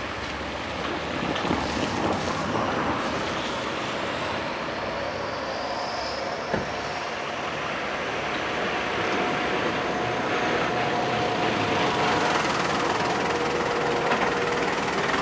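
Sagano Scenic Railway trolley train running on the line, a steady rumble of wheels and diesel locomotive engine that grows louder in the second half.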